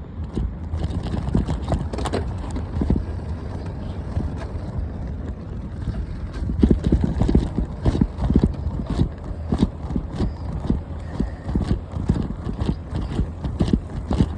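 Bicycle rattling and knocking over an uneven path, with irregular clattering hits throughout and a steady low rumble from tyres and wind on the microphone. The clatter grows busier about six seconds in.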